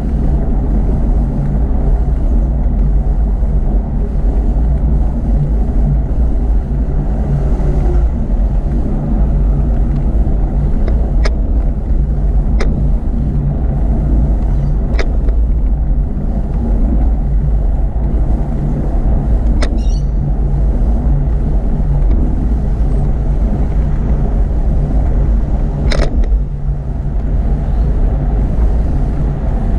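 Steady low rumble of riding a bicycle beside motorway traffic, with a few short sharp ticks scattered through it.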